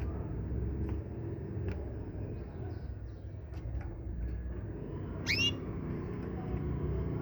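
Small birds chirping now and then over a steady low rumble, with one louder, short, sweeping call about five seconds in.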